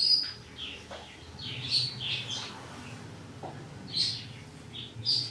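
Small birds chirping several times, with a low steady hum underneath.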